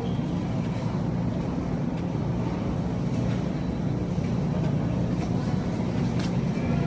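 Steady low mechanical hum with no change in pitch, with a few faint ticks.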